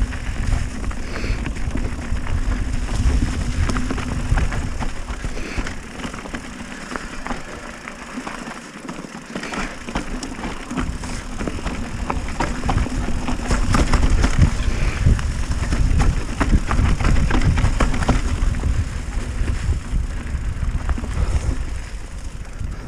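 Mountain bike descending a rough trail: a continuous low rumble with many small clicks and rattles as the bike goes over bumps, easing a little partway through.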